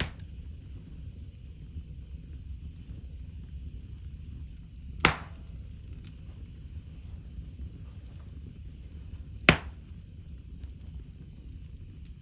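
Wood fire burning in a fireplace: a steady low rumble with faint crackle, broken by two sharp, loud pops about four seconds apart.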